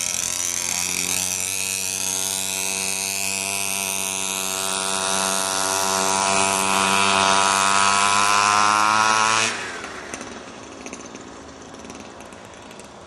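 Mini dirt bike (pocket bike) small engine running at a high, steady pitch, then revving higher and louder for several seconds. About two-thirds of the way through the engine sound drops off suddenly, leaving a fainter, rougher engine noise.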